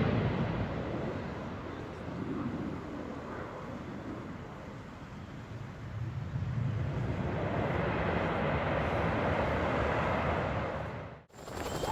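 Helicopter rotor and turbine engine noise, a steady rushing sound that fades somewhat, swells again, then cuts off suddenly near the end.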